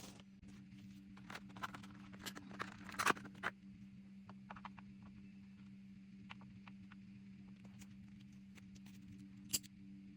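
Small objects being handled and set down on a table: a run of light clicks, taps and rustles in the first few seconds, then scattered ticks and one sharp click near the end, over a steady low hum.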